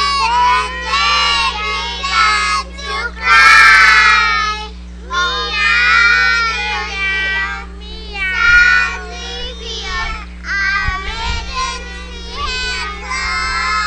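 A young child singing a high-pitched song in short phrases, loudest in a shrill stretch about three and a half seconds in, over a steady low electrical hum.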